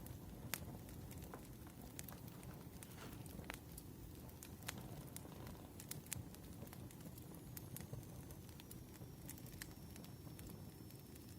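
Firewood burning: a low steady rumble with irregular sharp crackles and pops, and a faint thin high whistle that comes in about seven seconds in.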